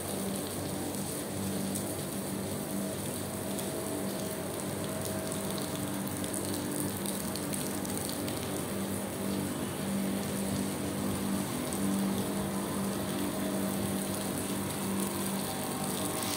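Heavy rain falling steadily, an even hiss of water, with a faint low hum underneath that comes and goes.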